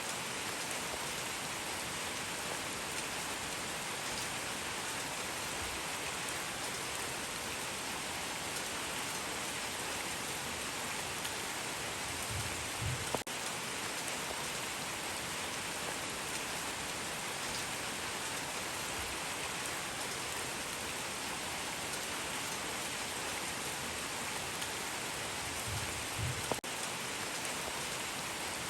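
Steady rain falling, an even hiss with no change in strength, broken twice by a faint low thump.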